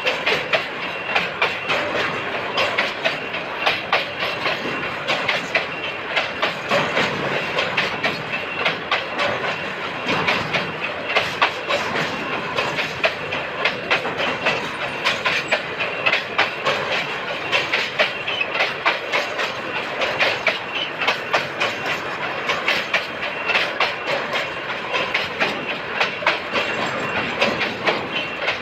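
Freight train wagons rolling on the track, their wheels clacking over rail joints in a long, steady run of clicks.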